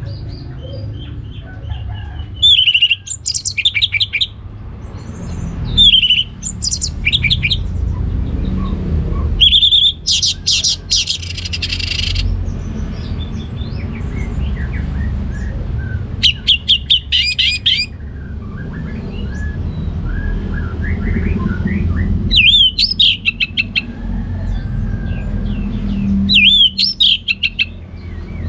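Orange-headed thrush (anis merah) singing in loud, full song, a phrase every four to six seconds. Each phrase is a quick slurred whistle followed by a rapid run of sharp, high notes, with softer twittering between phrases over a steady low rumble.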